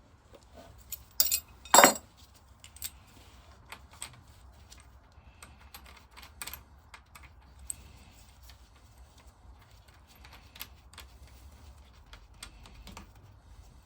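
Metal parts clinking and knocking as they are handled: two sharp knocks near the start, then light scattered clicks and taps.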